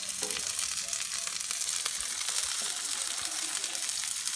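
Half-pound ground beef burger patty and potato rounds sizzling on a hot flat-top griddle: a steady hiss peppered with fine crackles.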